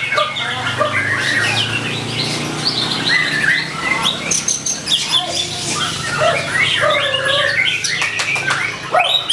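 White-rumped shama (murai batu) singing a fast, varied song of short whistles, pitch sweeps and harsh rattling clicks, with no pause, over a faint steady low hum.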